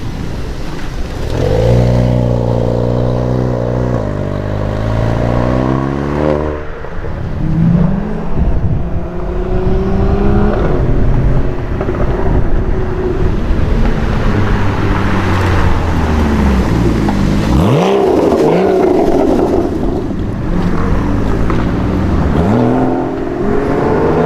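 Sports car engines accelerating and revving as several cars drive past one after another, each engine note rising and falling with throttle and gear changes.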